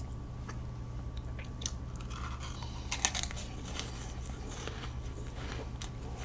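Close-miked mouth sounds of chewing soft whipped-cream cake: scattered small wet clicks and smacks, a little busier about three seconds in.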